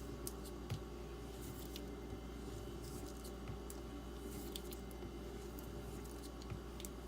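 D2 steel knife blade being stropped on a leather strop loaded with 1-micron diamond paste: faint, scratchy strokes and small clicks over a steady low hum.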